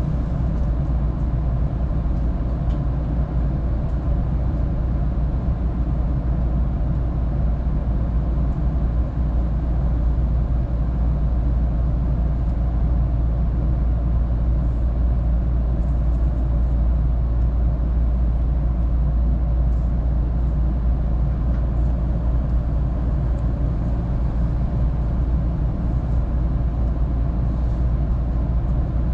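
Steady low rumble and hum inside a local electric train standing at a station with its doors open, its onboard equipment running.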